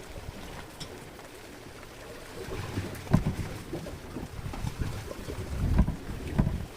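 Strong wind buffeting the microphone aboard a small boat at sea, in uneven gusts with a few heavy low thumps, the loudest about three seconds in and near the end.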